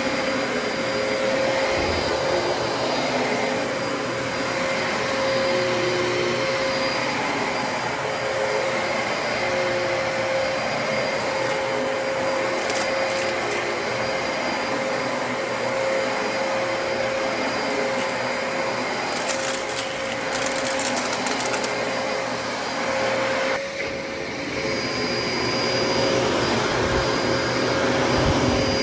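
Dyson DC33 upright vacuum cleaner running steadily with a constant whine over its airflow noise, its brushroll sweeping up debris. About twenty seconds in there is a spell of crackling as the debris is picked up, and shortly after, the pitch dips briefly and then settles again.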